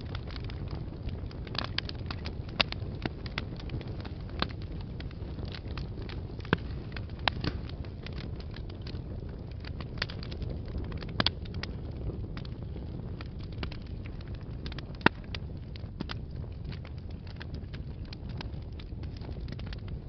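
Wood fire burning in a fireplace: a steady low rumble of flames with irregular sharp crackles and pops, one pop standing out loudest about three quarters of the way through.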